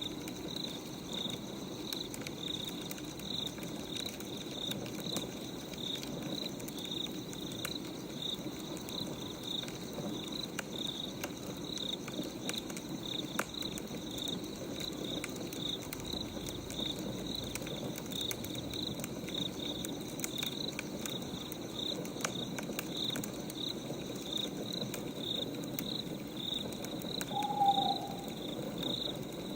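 Crickets chirping steadily, about two chirps a second, over the soft crackle of a wood fire, with one short owl hoot near the end.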